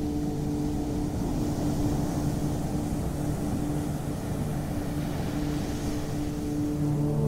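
Ocean surf washing in gentle swells under a low, steady droning hum, like a held ambient music pad. The hum thins out midway and swells back near the end.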